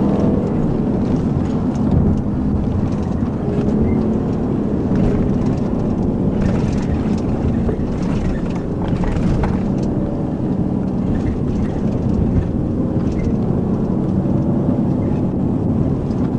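Patrol car driving at speed: a steady mix of engine and road noise.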